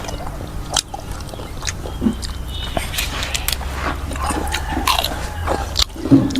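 Close-miked eating: a person biting and chewing a mouthful of food, with many short sharp mouth clicks over a steady low hum.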